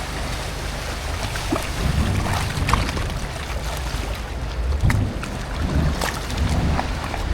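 Motorboat engine running with a steady low rumble, wind buffeting the microphone and small splashes of water over it.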